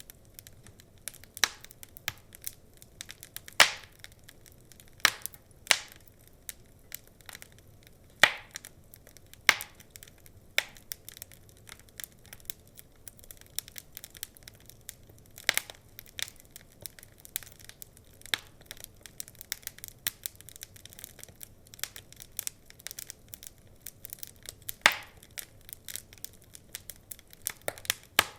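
Wood fire in a fireplace crackling, with irregular sharp pops and snaps, a few of them louder, over a soft steady hiss.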